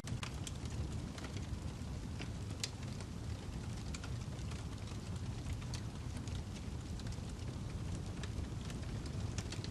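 Wood fire burning in a fireplace: a steady low rumble of flames with irregular sharp crackles and pops from the burning log.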